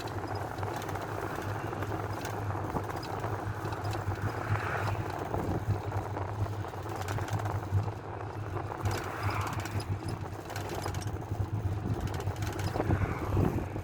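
Old Ford minibus under way, heard from inside the passenger cabin: a steady low engine hum under even road and cabin noise.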